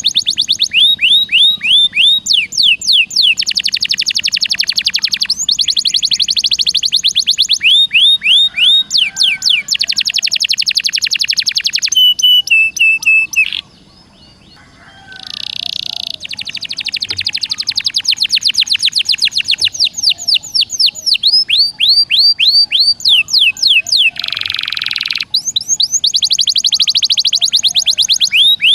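Songbird song in fast, tightly packed trills: runs of rapidly repeated sweeping whistled notes, changing phrase every second or two, with a short pause about fourteen seconds in.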